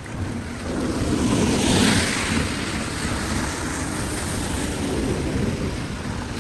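Floodwater rushing and pouring through a cleared storm drain, swelling over the first two seconds and then running steadily.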